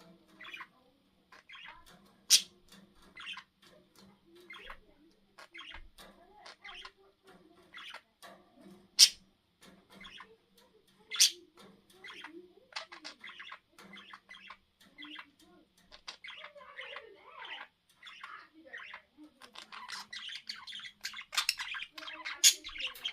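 Budgies chattering and squabbling: a run of quick chirps broken by four sharp, loud squawks, with the chatter growing busier near the end.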